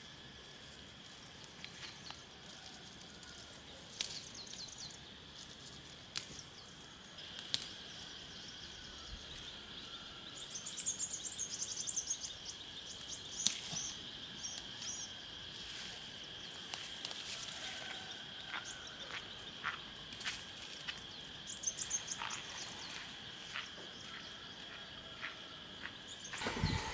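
Countryside ambience: a steady high insect drone with bursts of small bird chirps and scattered faint clicks.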